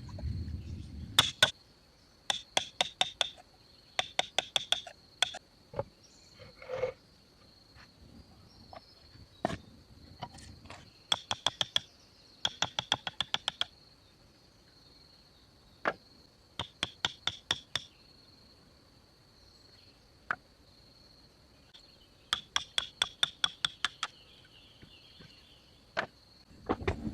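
Short bursts of rapid tapping, about eight sharp strikes a second, repeating every second or two over a steady high-pitched insect drone.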